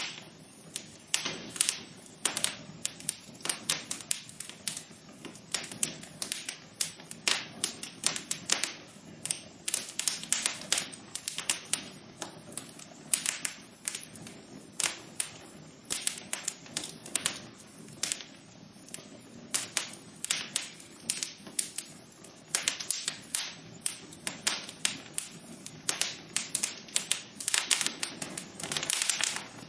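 Wood fire in a fireplace crackling: irregular sharp pops and snaps, several a second, over a soft steady rush of the flames.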